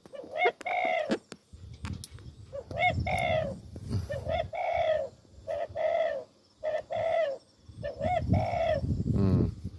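Dove cooing loudly and repeatedly, each note a short arched call, over the low rumble of strong wind buffeting the microphone.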